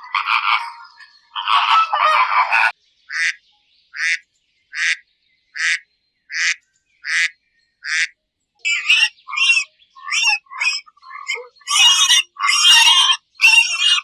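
An animal calling over and over: harsh calls for the first couple of seconds, then short calls evenly spaced a little under a second apart, then a busier run of mixed calls near the end.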